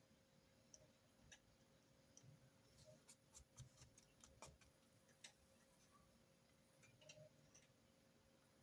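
Near silence with faint, scattered clicks and taps of pens and stationery during handwritten note-taking, with a quick run of light clicks about three to four and a half seconds in.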